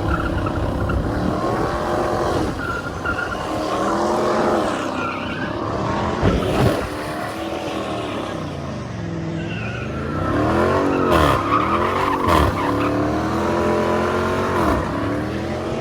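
A car engine revving hard, its pitch climbing and dropping again and again, while its tyres spin and squeal across the pavement in a drift.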